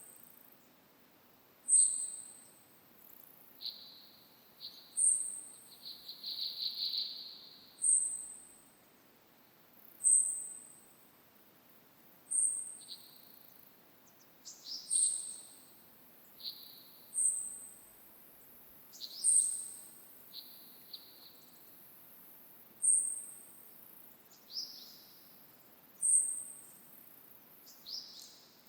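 Birds calling at dawn: one bird repeats a short, very high, thin note that drops slightly in pitch, about every two seconds, while other birds give occasional lower calls, including a longer call about six seconds in.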